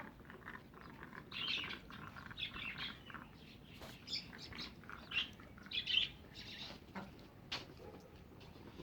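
Small caged birds chirping: a busy string of short, high calls, with a couple of sharp clicks in between.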